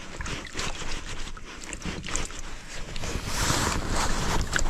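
Hands washing vegetables in a basin of water: splashing, rubbing and small knocks, with a louder rush of water about three and a half seconds in.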